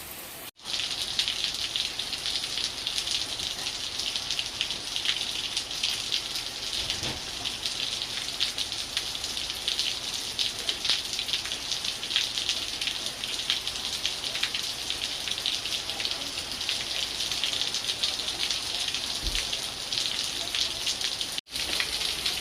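Steady heavy rain falling, a dense hiss with many separate drops heard hitting. The sound cuts out briefly about half a second in and again near the end.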